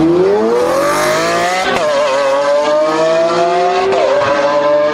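Supercar engine accelerating hard, its pitch climbing steadily. There are gear changes about two seconds in and again about four seconds in, each followed by the climb starting again.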